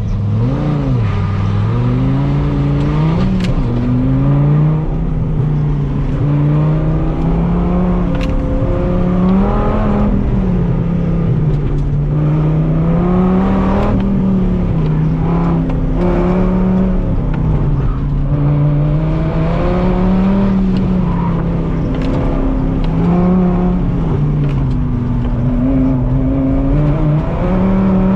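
Dodge Viper's V10 engine heard from inside the cabin on an autocross run. It rises in pitch over the first few seconds as the car launches, then revs rise and fall repeatedly with each burst of acceleration and lift.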